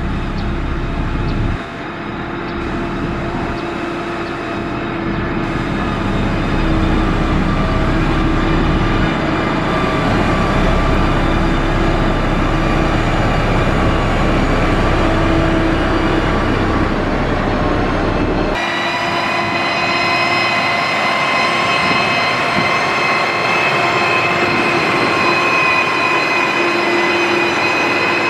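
Heavy construction machine engine running under load, a low rumble with several steady whining tones above it. About two-thirds of the way through the sound changes suddenly: the low rumble drops out and higher whining tones come in.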